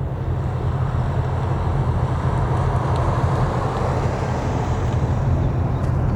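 Aircraft engines running: a steady deep rumble with a broad rushing noise above it, swelling slightly in the middle.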